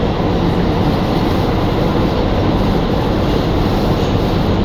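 R211A New York City subway car running between stations, heard from inside the car: a steady, loud rumble of wheels on rail and running gear.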